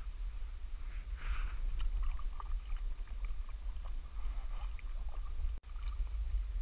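Strong wind buffeting the microphone, a steady low rumble, with scattered faint clicks and knocks from the boat.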